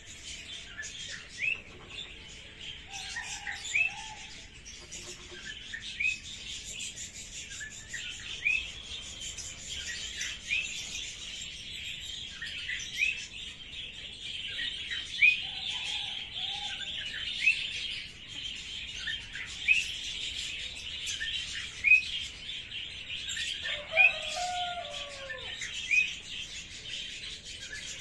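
Birds calling: one bird repeats a short rising chirp about every two seconds over a steady high-pitched chatter, with a few lower, falling calls now and then, the strongest of them about three quarters of the way through.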